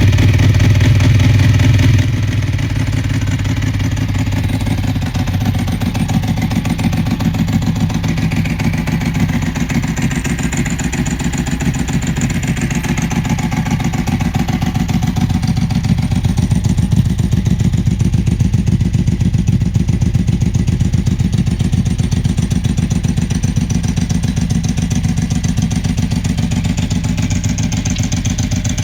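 Ducati 999S L-twin engine breathing through an aftermarket Mivv exhaust, running a little harder for about the first two seconds, then settling into a steady idle.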